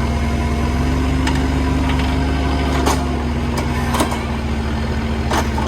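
Diesel engine of a Kubota KX057-4 mini excavator running steadily at working revs, with a few sharp clanks and knocks scattered through.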